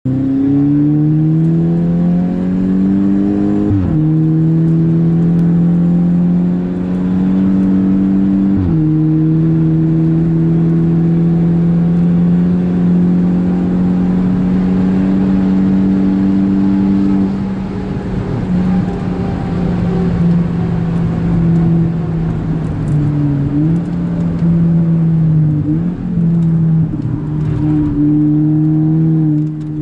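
Inside the cabin of a Volkswagen Golf 5 GTI Pirelli at full throttle, its turbocharged 2.0-litre four-cylinder climbing in pitch with sharp upshifts about 4 and 9 seconds in, then held at a steady high note. A little past halfway the note drops off and the revs rise and fall in quick jumps as the car brakes and shifts down for a bend.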